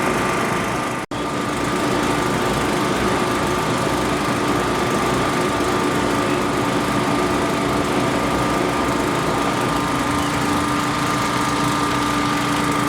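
An engine-driven machine running steadily with a constant hum, cutting out for an instant about a second in.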